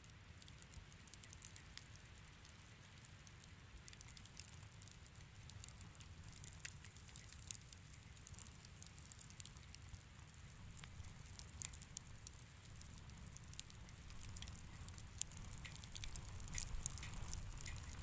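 Wood fire crackling in a fireplace: scattered small pops and snaps over a low steady rumble, growing busier in the last few seconds.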